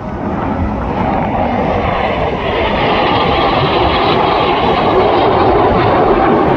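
Jet aircraft flying over the airfield, the steady noise of its engines growing louder over the first few seconds and then holding.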